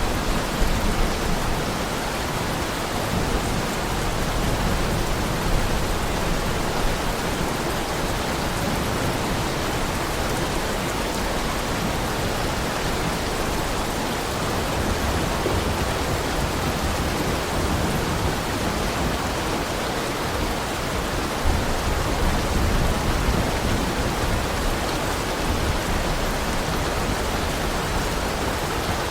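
Heavy rain falling steadily: an even rushing hiss with a low rumble underneath, swelling a little now and then.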